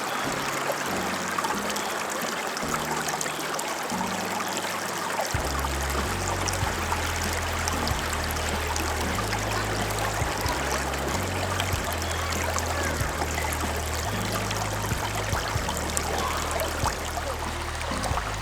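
Shallow mountain stream running over rocks, a steady rushing of water. About five seconds in, low bass notes of background music come in under it.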